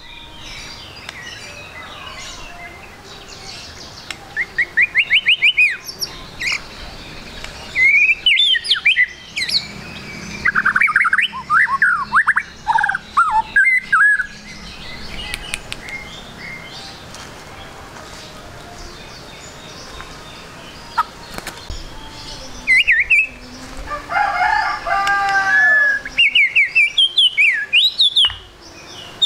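White-rumped shama (murai batu) singing in bursts of rapid, sweeping whistled phrases, with a quieter pause in the middle.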